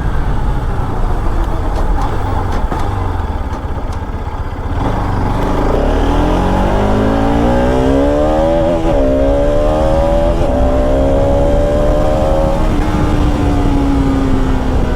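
Bajaj Pulsar RS 200's single-cylinder engine accelerating hard. After a few seconds of low running, the engine note climbs steadily, drops briefly at two quick gear changes, then holds an even pitch that eases slightly near the end.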